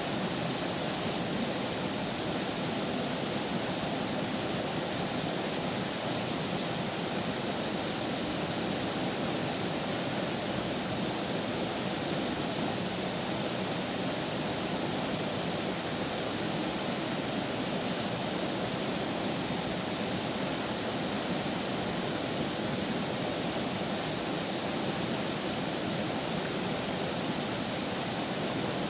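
Flowing river water, a steady, even rushing that does not change.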